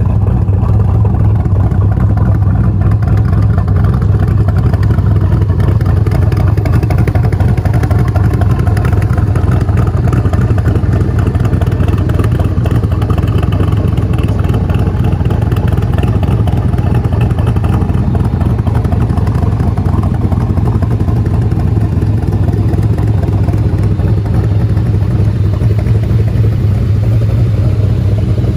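1966 Corvette's 427 big-block V8 idling steadily, a loud, even low rumble.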